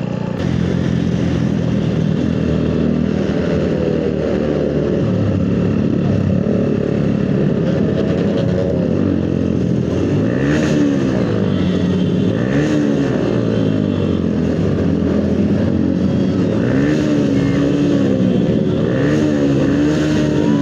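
Motorcycle with a modified exhaust running while riding, its engine note rising and falling several times in the second half as the throttle is worked.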